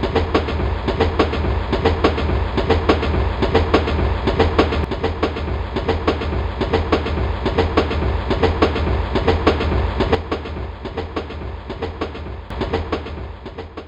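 A train running past, its wheels clattering over the rail joints in a fast clickety-clack over a steady rumble, fading away over the last few seconds.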